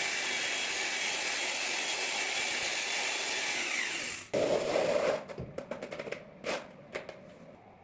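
A power tool's motor runs steadily with a whine for about four seconds, then winds down. It is followed by a short burst of lower scraping noise and a series of knocks and clicks.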